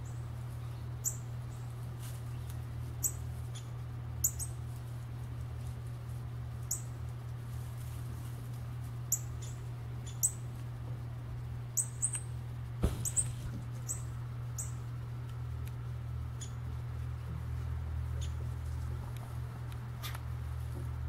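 Small bird giving short, high-pitched chip calls, one every second or so at irregular intervals, over a steady low hum. A single sharp knock sounds about halfway through.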